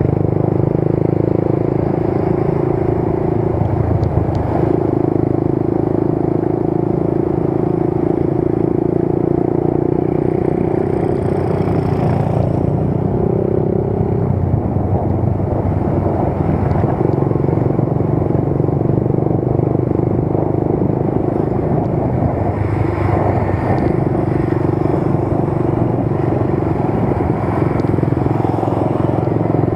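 Motorcycle engine running steadily while riding, with road noise; its note shifts briefly a few times.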